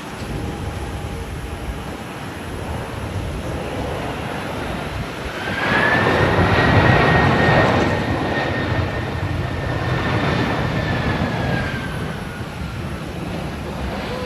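Airbus A330-302 jetliner with GE CF6-80E1 turbofans passing close on its landing approach. Its engine noise swells about five seconds in and is loudest a couple of seconds later, then eases off. A high engine whine rises as it nears, then slowly falls in pitch as it goes by.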